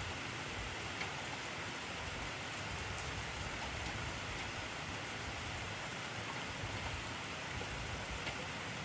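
Heavy rain falling steadily: a dense, even hiss of rain on surfaces with a few distinct drops.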